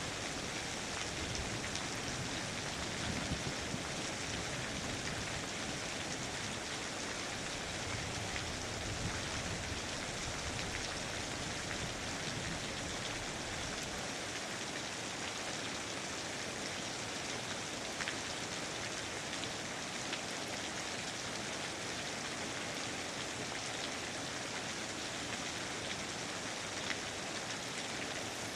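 Steady rain falling, an even hiss of rain with scattered individual drops ticking through it.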